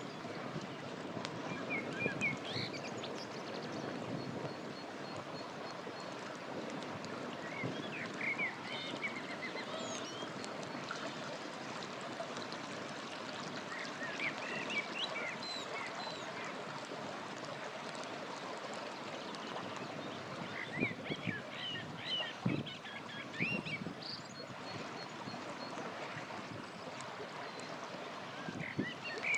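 A river flowing steadily, with small birds chirping in short clusters of high chirps several times. A few sharp crackles from a campfire come through now and then.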